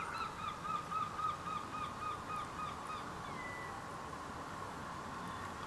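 A bird calling a rapid run of about a dozen short, repeated notes, about four a second, that stops about three seconds in.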